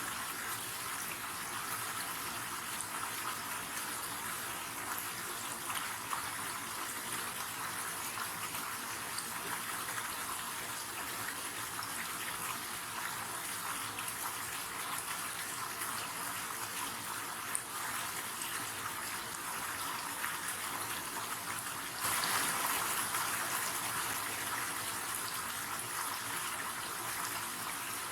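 River water flowing, a steady rushing sound that jumps suddenly louder about 22 seconds in.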